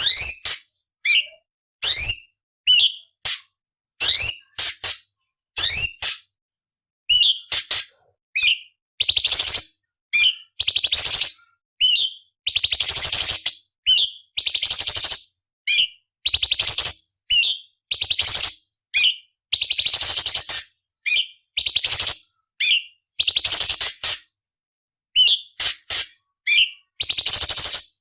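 Orange-bellied leafbird (cucak cungkok) singing in a rapid series of short phrases. Quick whistled notes that slide in pitch alternate with longer, harsh rasping chatters, with brief silent gaps between the phrases.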